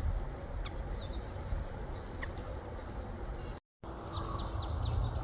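Small songbirds, chickadees and nuthatches, giving short high chirps and a brief whistled note, with a run of quick chirps near the end, over a steady low rumble of background noise.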